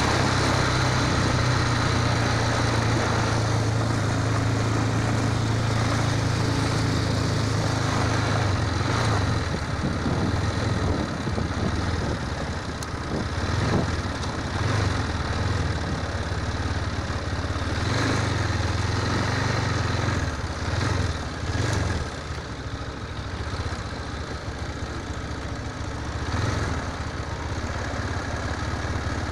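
Motorcycle engine running at a steady pitch under a dense rushing noise, a little quieter and less even in the second half.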